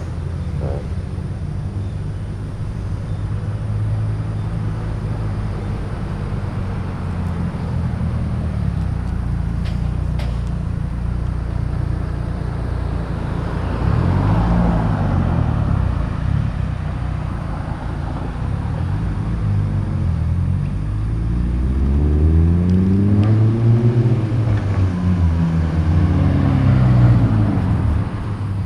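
Car engines running and driving off one after another, with engine notes rising and falling as cars rev and pass, loudest in the second half.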